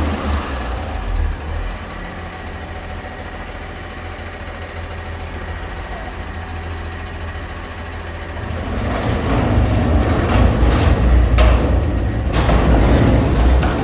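Garbage truck engine running with a steady low rumble, growing louder about eight seconds in, with two sharp bangs or hisses near the end.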